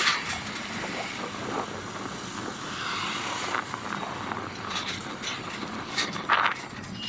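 Steady vehicle and road noise with a few short knocks about five to six and a half seconds in.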